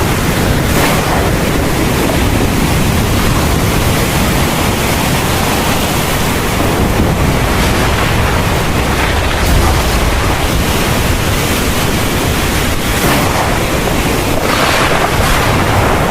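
Heavy thunderstorm rain pouring steadily, with a continuous low rumble underneath.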